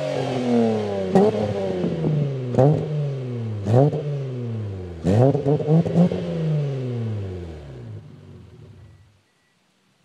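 Mazda MX-3's 1.8-litre V6 engine revved again and again: each rev climbs quickly and falls away slowly, several of them with a sharp crack as the throttle opens. The engine sound fades out near the end.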